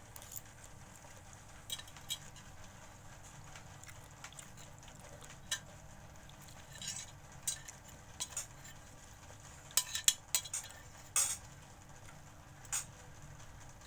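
Cutlery clinking and scraping against a plate or bowl while eating, in scattered short clicks, with a cluster of the loudest ones about ten seconds in.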